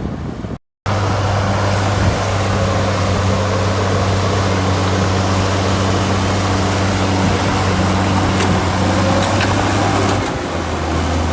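Heavy diesel earthmoving machine engine running steadily under load, broken by a short complete drop-out just after the start; the engine note shifts and dips slightly near the end.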